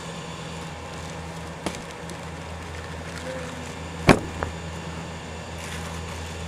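Steady low mechanical hum, like a running engine or machine, with one sharp knock about four seconds in, followed quickly by a smaller one.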